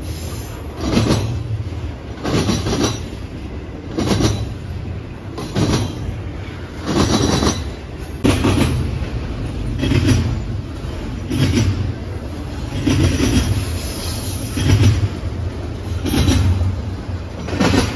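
Railroad cars rolling past over jointed rail: a steady low rumble with a wheel clatter about every second and a half as each set of trucks crosses the rail joints.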